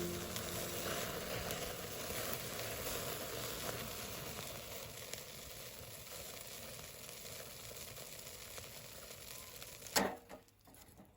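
Meat sizzling over charcoal on a shichirin grill: a steady hiss that slowly fades, ending with a sharp click about ten seconds in.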